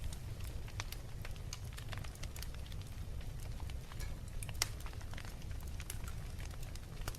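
Wood fire crackling in a fireplace: irregular pops and snaps over a steady low rumble, with one sharper pop about four and a half seconds in.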